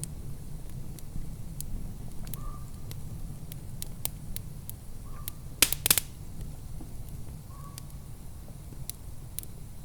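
Wood fire crackling in a fireplace: scattered sharp pops over a low steady rumble, with a cluster of louder pops about six seconds in.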